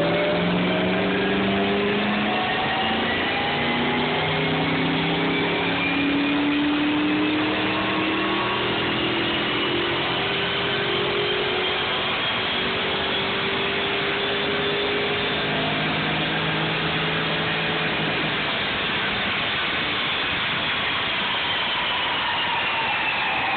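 Ford Mustang Cobra's V8 making a full-throttle dyno pull in one gear, the revs climbing steadily for about three-quarters of the time. Near the end the driver lifts off and the pitch falls as the engine and dyno rollers spin down.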